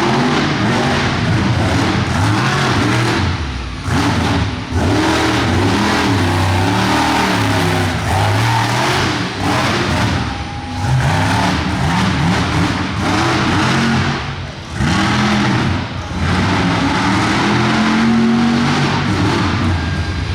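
Monster truck engine revving hard, its pitch climbing and falling again and again with the throttle, dropping off briefly a few times as the throttle is lifted.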